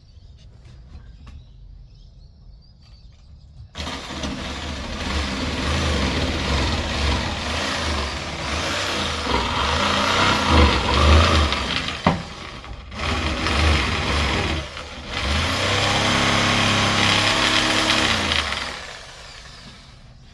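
Electric jigsaw cutting wood. It starts about four seconds in, runs with two brief pauses, and stops shortly before the end.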